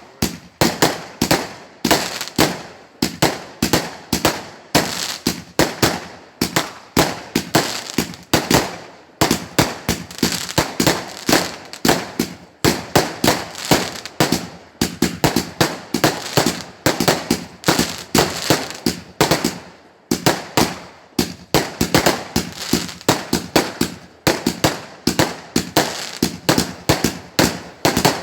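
Fireworks going off in a long barrage of sharp bangs, several a second, with a few short lulls.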